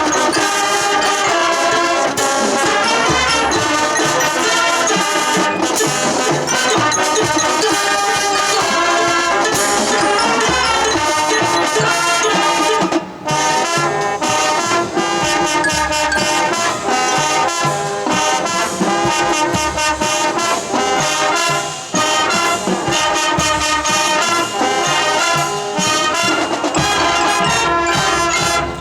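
High school marching band playing its field show, the brass section carrying the tune over drumline hits. The music breaks off for a moment about 13 seconds in, then resumes.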